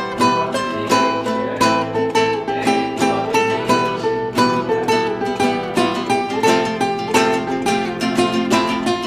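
A plucked string instrument playing an improvised melody in quick, steady plucked notes, about four or five a second.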